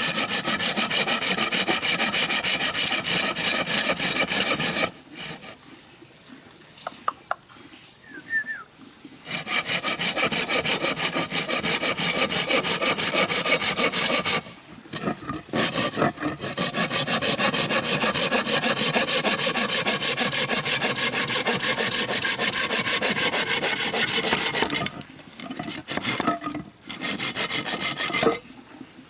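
Saw cutting through wood in quick, rasping strokes, in three long spells with short pauses between them.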